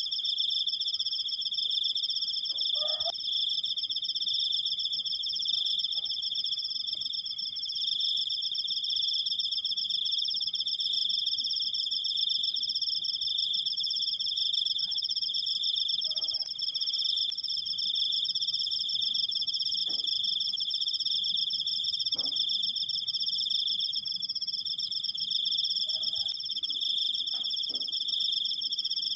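Cricket singing a long, unbroken high-pitched trill that holds steady throughout.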